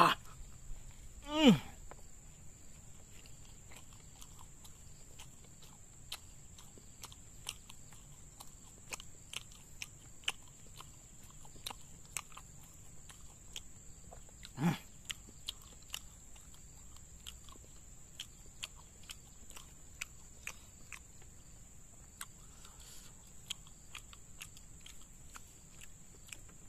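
Close-miked chewing of martabak: many small mouth clicks and smacks over a steady high-pitched whine. About a second and a half in, a short voice sound falls in pitch, and a single louder sound comes about halfway through.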